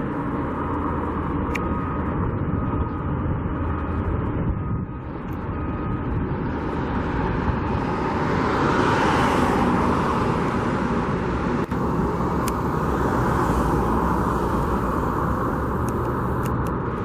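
Road traffic running steadily, with a vehicle passing close by about halfway through and another going by a few seconds later.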